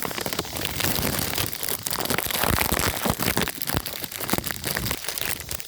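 A bag of grapes crinkling and rustling close to the microphone as it is handled and grapes are fished out, in a dense run of crackles.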